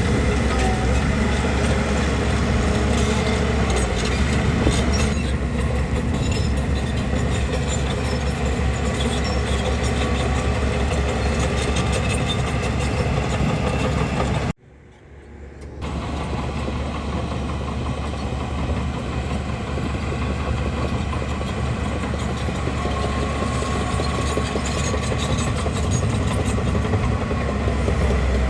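Heavy diesel engine of a bulldozer running steadily. The sound cuts out abruptly about halfway through and fades back in over a second or so.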